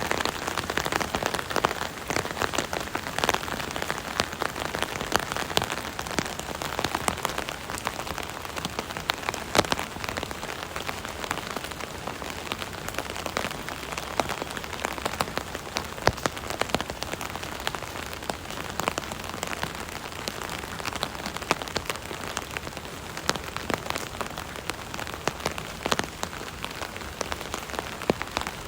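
Steady rain drumming on an umbrella canopy, heard from underneath, with a dense patter of individual drops striking the fabric.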